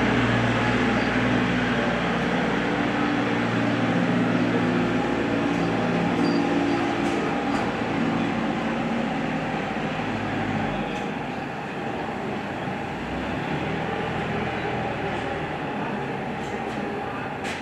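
Engine running with a steady drone and a strong low hum; the hum drops away about ten seconds in, leaving a fainter mechanical drone.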